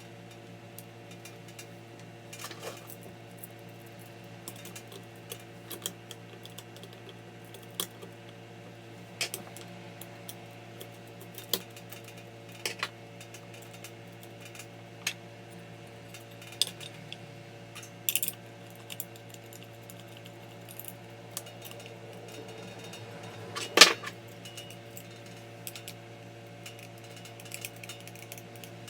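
Scattered light clicks and clinks of small hard objects being handled, over a steady low hum; one louder knock comes about 24 seconds in.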